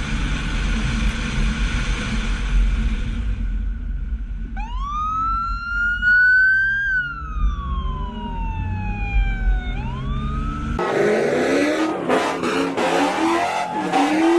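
Steady car engine and road noise, then a siren wailing in one slow rise and fall and starting to climb again. It cuts off suddenly and gives way to loud noise with several sharp knocks.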